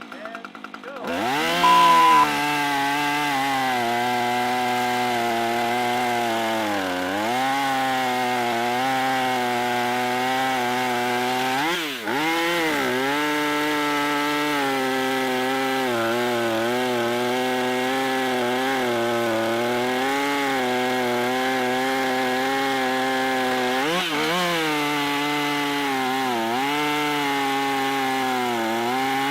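Gas two-stroke arborist chainsaw cutting through a log at full throttle. The engine pitch sags under load and recovers several times. A short high beep sounds near the start.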